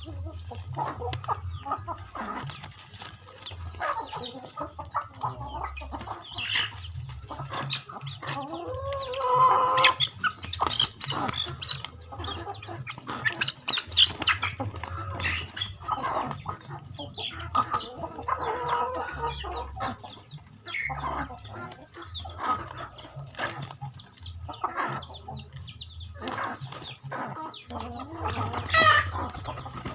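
Chickens clucking on and off as they are fed, with many short clicks and taps among the calls and a low rumble underneath.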